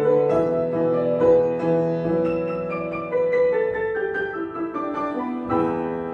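Piano playing a melody over chords, with a final chord struck about five and a half seconds in and left to ring.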